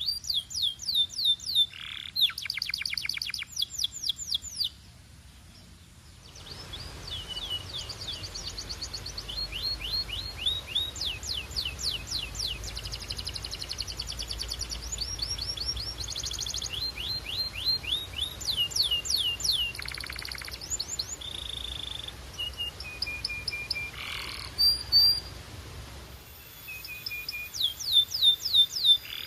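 Canary singing in fast rolls of repeated, sharply falling notes, with a short break about five seconds in and a few held whistled notes in the second half.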